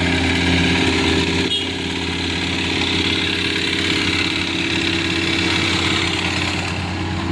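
Excavator's engine running steadily with a low, even hum.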